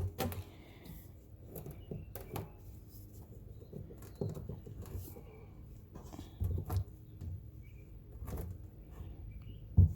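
Scattered knocks and clicks of PVC pipe and fittings being handled and pushed together by hand, with faint bird chirps here and there.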